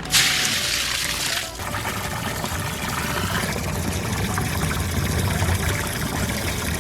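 A bucketful of water-swollen Orbeez gel beads pouring into water, a loud hissing splash lasting about a second and a half, followed by steady trickling and sloshing water.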